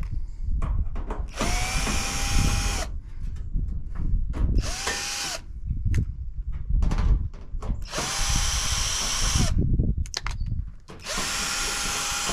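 Power drill running in four short bursts, each spinning up to a steady whine and winding down, with knocks and clatter between the bursts.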